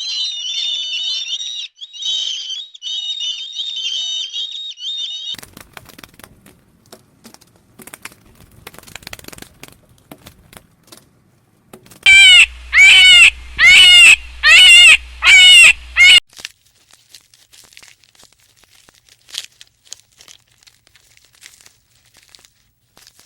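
High, rapid chirping from a small animal or bird for the first few seconds, then soft rustling, then a run of five loud, shrill calls in quick succession, followed by faint rustling.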